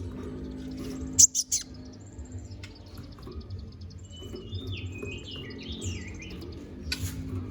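Konin (kolibri ninja sunbird) singing a rapid, high, chattering song full of varied twitters and quick zigzagging notes. Loud sharp chips come about a second in and again near the end.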